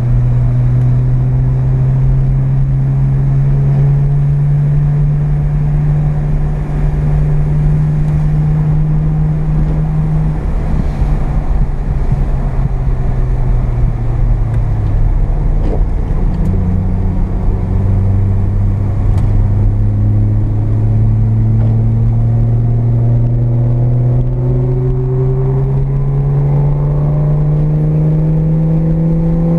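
Carbureted 12A rotary engine of a Mazda RX-7, heard from inside the cabin, running under load with a steady low rumble of road noise. Its pitch creeps up for about ten seconds, backs off between about ten and sixteen seconds in, then rises steadily again to the end as the car accelerates.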